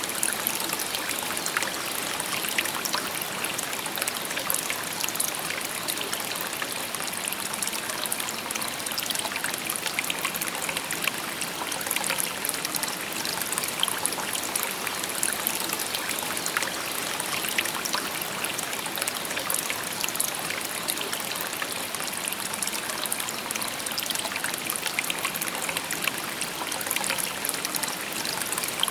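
Shallow river babbling steadily, water trickling and splashing over stones with many small crisp droplet sounds.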